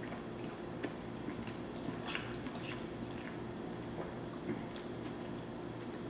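Close-miked wet chewing of a mouthful of cheesy spaghetti casserole, with a few small clicks of a white fork against a glass baking dish as more noodles are scooped up, over a steady low hum.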